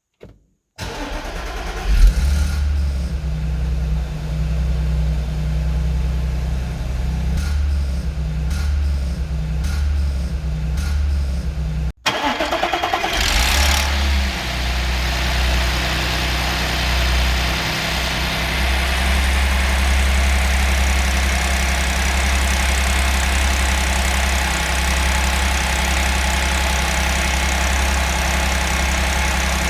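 Audi S4 B8's supercharged 3.0-litre V6 cold-starting and running at idle, with the rattle of a worn timing chain. About halfway through, the sound cuts out for a moment and comes back with a short, harsher burst before the idle steadies again.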